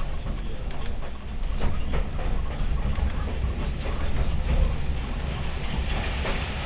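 Railway carriage running along the track, heard from on board: a steady low rumble with irregular clicks and knocks from the wheels on the rails.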